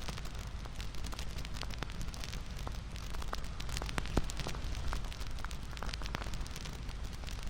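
Wood fire crackling, with many irregular sharp pops over a steady low rumble and one louder pop a little past the middle.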